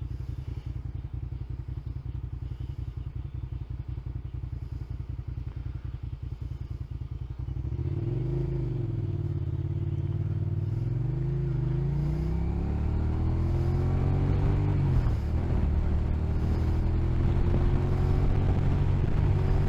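Motorcycle engine idling with a steady low pulse, then about seven or eight seconds in it pulls away, rising in pitch and dropping back several times as it goes up through the gears, and settles into a steady cruising note.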